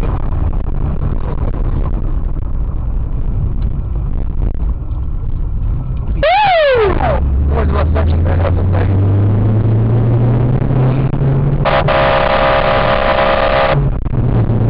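Car engine and road noise, the engine pitch climbing as the car speeds up, with a short sound sliding up then down in pitch about six seconds in and a car horn held for about two seconds near the end.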